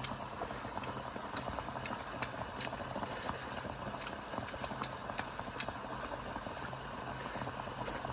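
Self-heating hot pot simmering: a steady bubbling, with scattered small clicks.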